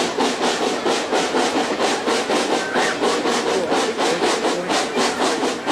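Steam train working uphill, an even rhythm of beats about five a second. To the riders it sounds like it is running out of steam.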